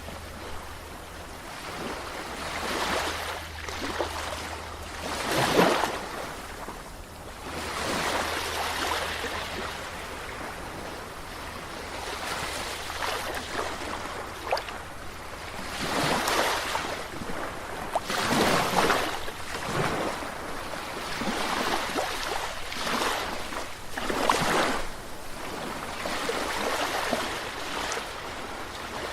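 Sea waves surging and washing in, each swell rising and falling away every two to three seconds.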